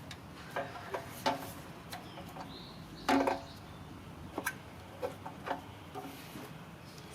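Scattered clicks and knocks of tools and metal parts being handled while working on a pressure washer's fuel tank mounting, the loudest a short clatter about three seconds in.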